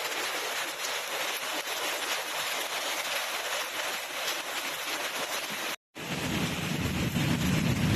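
Steady rain, an even hiss. The sound cuts out briefly about six seconds in, and when it returns a low rumble runs under the rain.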